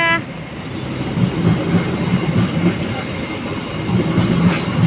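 A train passing close by on the station tracks: a steady rumble with a repeated low clatter of wheels over the rails. The tail of its loud horn cuts off right at the start.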